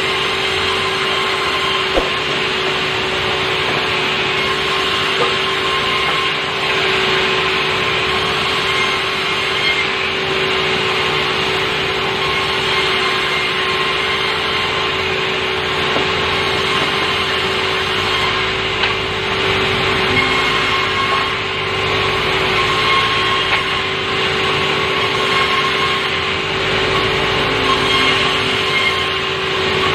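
Sawmill saw running and cutting softwood timber: a steady, loud machine noise with a constant hum.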